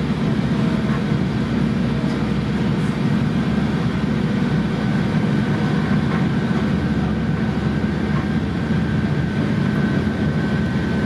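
Steady low rumble of a Sounder commuter coach rolling along the track, heard from inside the passenger car. A faint thin, steady high tone comes in about halfway through and holds.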